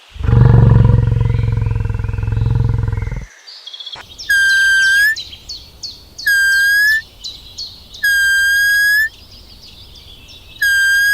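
A deep, drawn-out animal call lasting about three seconds, then four identical high whistling calls about two seconds apart.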